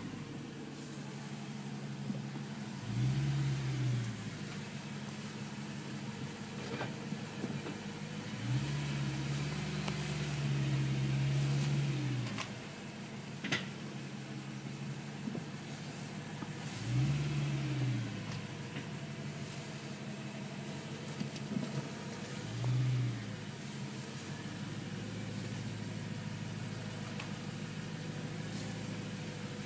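2011 BMW M3's V8 engine idling, revved briefly about three seconds in, held at raised revs for about three seconds near ten seconds in, then blipped twice more. The engine is run to show a ticking noise.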